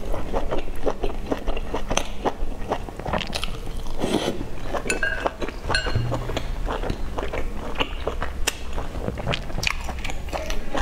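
Close-miked eating sounds: a person chewing a mouthful of food, with irregular wet clicks and crunches several times a second.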